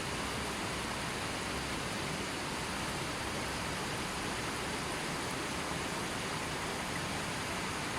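River water flowing steadily over its bed, an even rushing noise.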